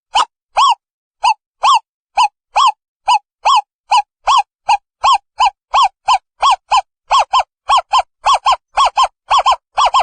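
Owl calling: a long series of short, hooting notes, each rising and falling slightly in pitch, repeated at about two a second and quickening to about four a second near the end.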